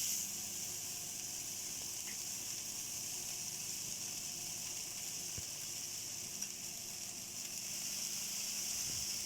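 Cheese sizzling steadily in a pan on low heat as it melts and crisps into a taco shell.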